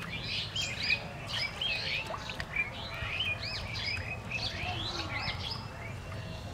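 Several small birds chirping, a busy stream of short, quick rising-and-falling notes overlapping one another.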